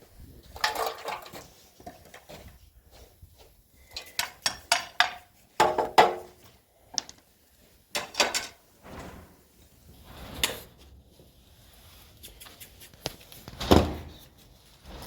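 Irregular knocks and clatters of hard objects being handled, with a quick run of several knocks about four seconds in and the loudest knock near the end.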